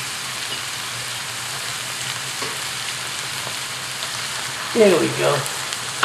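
Conger eel pieces frying in sambal paste in a hot pan. The sizzle stays steady while they are stirred and tossed with a utensil.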